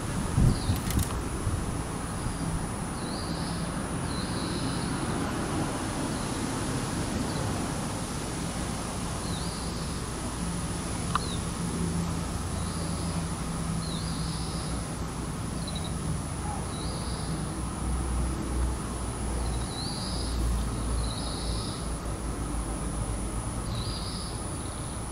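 Outdoor ambience: a small bird chirping short calls every second or two over a steady low rumble of wind or distant traffic, with a thin, high, steady whine throughout.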